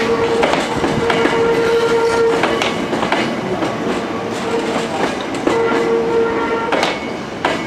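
Hankyu electric train moving through depot trackwork, its wheels clacking over rail joints and points, with a steady tone that cuts in and out.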